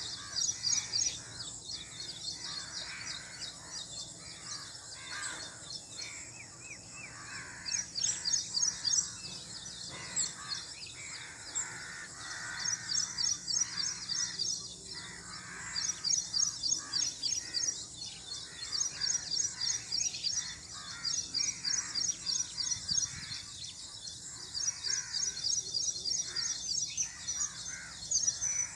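Birds calling outdoors: short bursts of rapid, high-pitched chirping that recur every second or two, with rougher, lower calls mixed in, over a steady background hiss.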